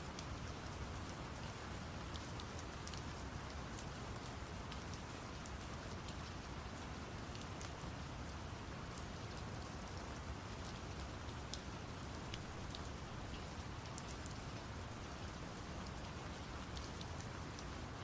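Steady rain with scattered drop ticks, layered over a deep, even brown-noise rumble.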